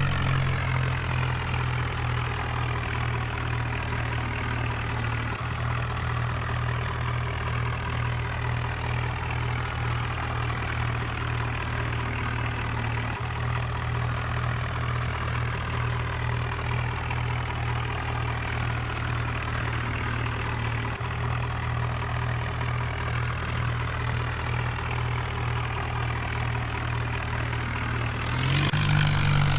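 Tractor engine idling steadily, its revs picking up slightly near the end.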